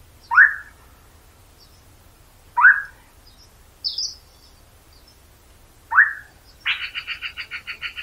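Wild forest birds calling. A loud, short, rising call comes three times a few seconds apart, with a fainter, higher note in between. Near the end a rapid rattling trill of about nine pulses a second begins.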